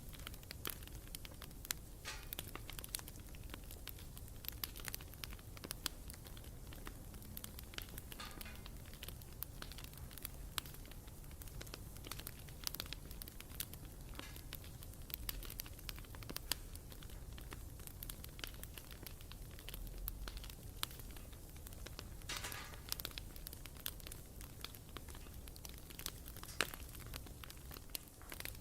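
Wood bonfire burning, with constant irregular crackling and sharp pops over a low rumble of the flames. A brief hiss rises out of the fire about eight seconds in and again about twenty-two seconds in.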